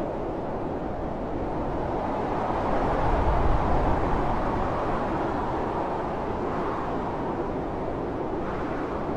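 Blizzard wind blowing in a steady, deep rush. A strong gust swells about three seconds in and then eases back.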